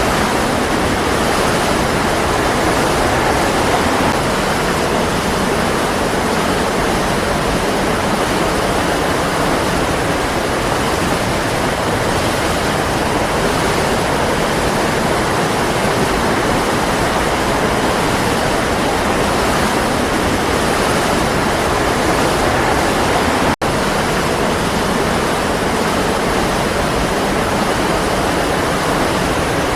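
Waterfall: water rushing and pouring steadily, with a split-second dropout about two-thirds of the way through.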